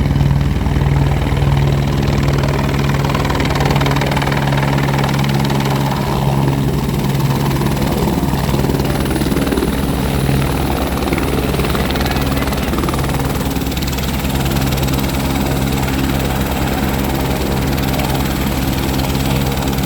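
Helicopter running steadily: a constant hum with a fast, even rotor beat underneath.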